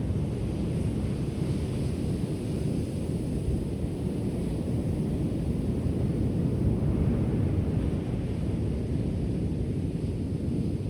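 Ocean surf: a steady low rumble of waves rolling onto the shore, rising and falling gently in level.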